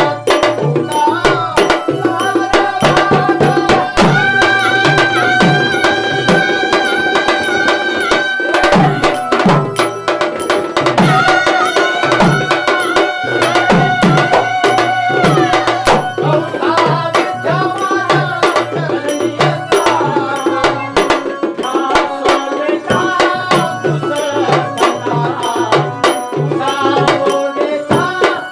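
Instrumental Marathi tamasha folk music: a hand drum keeps a fast, steady rhythm of low strokes under a melody of long held notes.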